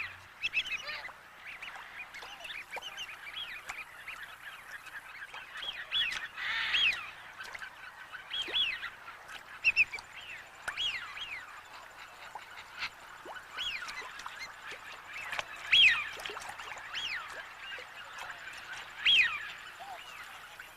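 Wetland birds calling: short, clear whistled calls, often in twos and threes, come every second or two over a steady background chorus of waterfowl. The loudest calls come about two-thirds of the way in and again near the end.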